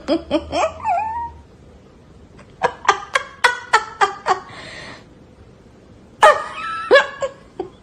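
A dog yipping in quick runs of short, high calls, some of them sliding down in pitch.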